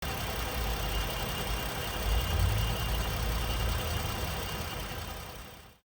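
2023 Ford F-150 pickup's engine idling steadily, fading out near the end.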